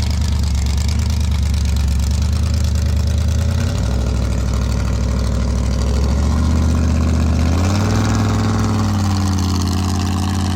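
A large vehicle engine running at a steady idle. Its pitch steps up about four seconds in, then rises again near eight seconds as it is revved, before settling.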